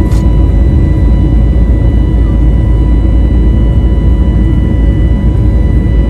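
Steady loud rumble of a passenger airliner's cabin, with a thin steady whine above it and a brief click right at the start.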